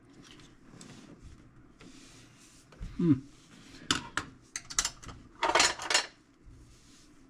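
Small metal parts and screws being handled at a tool box during a repair: scattered sharp clicks and clinks, with a longer rattle about three quarters of the way through.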